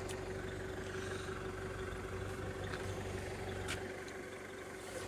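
A steady mechanical hum holding one even tone over a low drone, with a couple of faint clicks.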